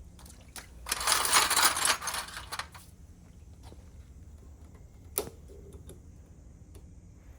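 Workshop handling sounds: a noisy rush about a second in lasting a second and a half, then scattered small metallic clicks and one sharper click about five seconds in.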